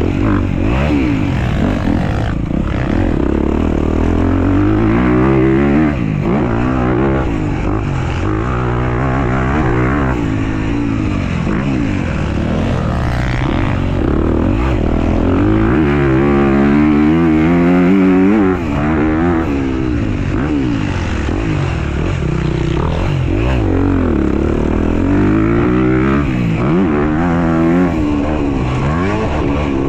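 Dirt bike ridden on a motocross track, its engine pitch climbing and dropping over and over as the rider accelerates, shifts and backs off.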